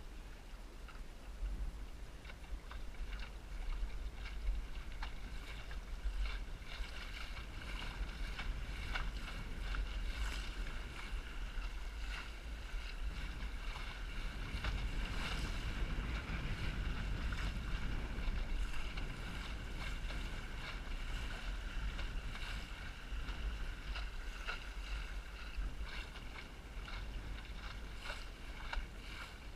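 Small Snark sailboat under way in high wind: wind buffets the microphone in a constant low rumble while water splashes and slaps against the hull, with a steady high hum throughout. The noise swells for a few seconds around the middle.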